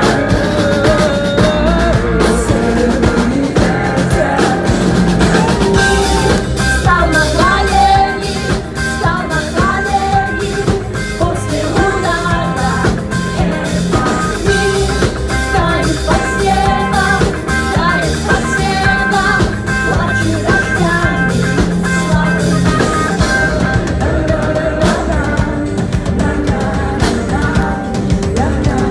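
A live rock band playing, with a drum kit beat under dense instrumental lines and a voice singing without clear words.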